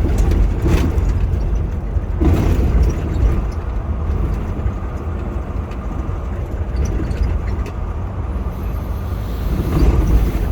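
Semi truck driving, a steady low engine and road rumble, with brief swells of louder noise about a second in, a couple of seconds in and near the end.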